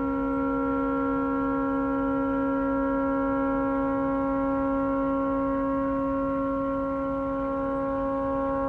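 A tugboat's stuck air horn sounding one continuous, unbroken blast, holding a steady pitch with several overtones and no change in level. The horn has malfunctioned and cannot be shut off.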